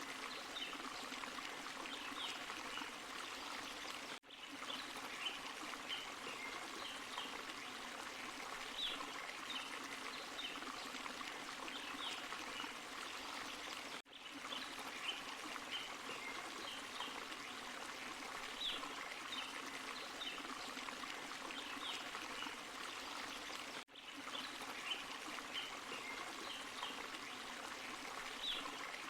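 Forest stream and small waterfall: steady rushing, trickling water, with scattered short high-pitched ticks over it. The sound dips out very briefly three times, about ten seconds apart.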